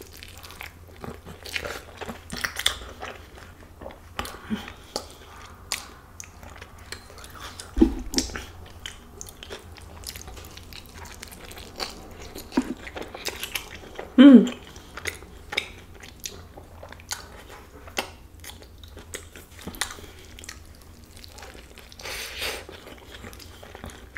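Close-up mouth sounds of a person biting into and chewing a soft flour-tortilla burrito filled with pork: repeated wet smacks and clicks. One short hum past the middle.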